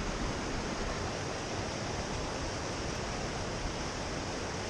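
Steady, even rush of fast-flowing water from a nearby creek or waterfall.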